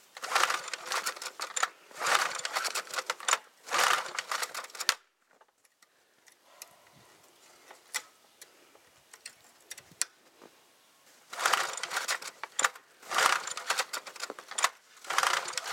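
Small engine of a go-kart mower being pull-started: three pulls of the recoil starter, a pause of several seconds, then three more, the engine cranking over each time without firing.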